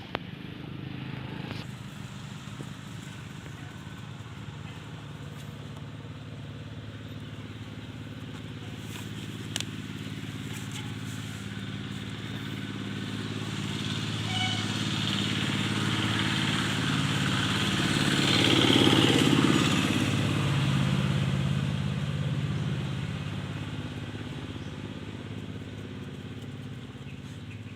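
A motor vehicle engine running steadily, growing louder to a peak about two-thirds of the way through and then fading, as if a vehicle passes by.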